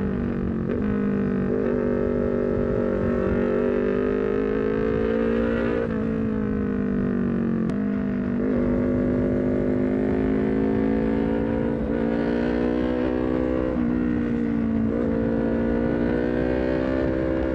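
Honda CBR250RR parallel-twin engine through an aftermarket R9 header and short Leovince GP Corsa carbon silencer, running at high revs while riding. The engine note rises and falls gently, with several sudden brief dips in pitch, over a low rumble of road and wind noise.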